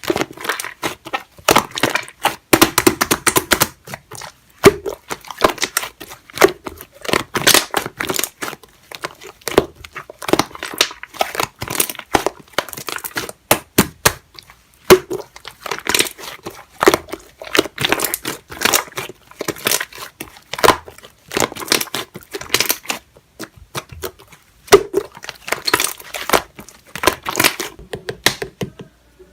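Slime being squeezed, stretched and pressed by hand, giving dense irregular crackling and popping clicks with brief pauses, stopping abruptly at the end.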